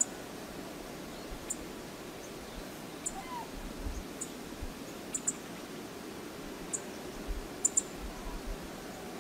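Steady low outdoor rush with high, thin bird chip notes about once a second, and a short whistled bird note about three seconds in.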